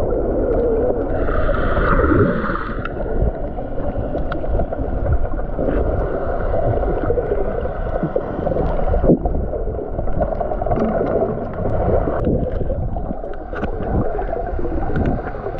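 Muffled rumbling and gurgling water noise from an action camera held underwater while snorkelling, with scattered sharp clicks. The sound changes abruptly twice in the second half.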